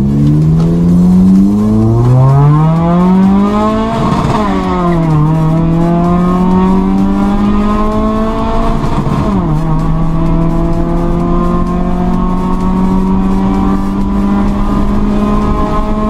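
Honda Civic's D17A four-cylinder engine, stock apart from an aftermarket header, accelerating hard through the gears of its manual gearbox, heard from inside the cabin. The revs climb, fall sharply at gear changes about a second and a half in, around four seconds in and about nine and a half seconds in, then climb slowly again in the higher gear.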